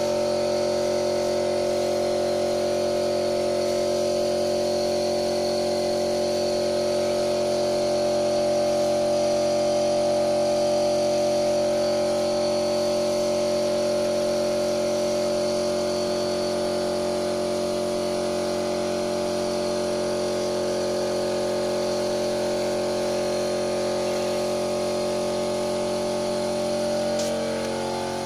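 Lada Priora engine with 81,000 km on it idling steadily, an even mechanical hum; its pitch shifts slightly near the end.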